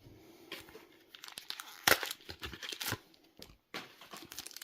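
Foil wrapper of a trading-card booster pack crinkling and tearing as it is handled, in irregular crackles with a sharp one about two seconds in.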